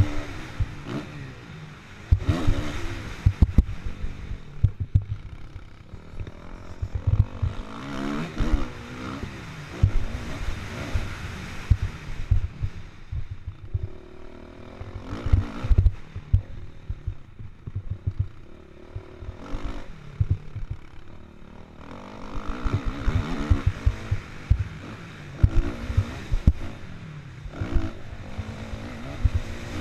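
Kawasaki KX450F's four-stroke single-cylinder engine revving up and dropping off again and again as it is ridden hard on a dirt motocross track, heard from the rider's helmet camera. Constant low thumps and buffeting run underneath.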